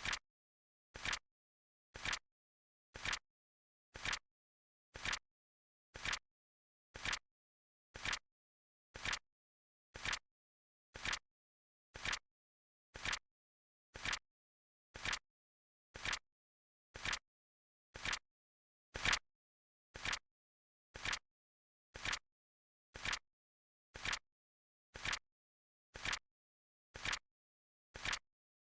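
Flip-clock timer sound effect: a short, sharp flip click once a second, evenly spaced, with dead silence between clicks. One click at about two-thirds of the way through is a little louder.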